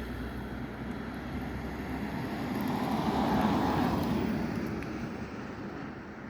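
Passenger train passing over a level crossing: a rushing rail noise that swells to its loudest about three and a half seconds in, then fades away.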